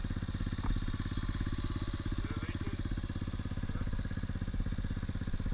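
Dirt bike engine running at steady low revs, a rapid even pulse with no revving.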